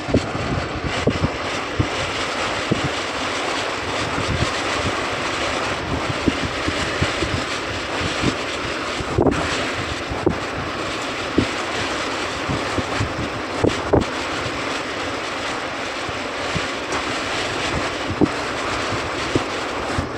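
Steady rush of air blowing from an air conditioner, with irregular low thumps as the airstream buffets the microphone.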